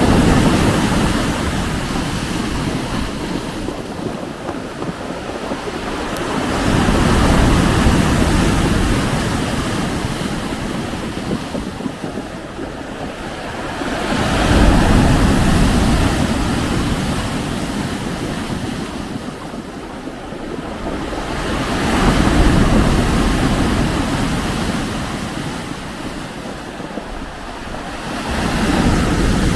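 Lake Ontario waves breaking on the shore, surging in about every seven seconds, with wind gusting over the microphone.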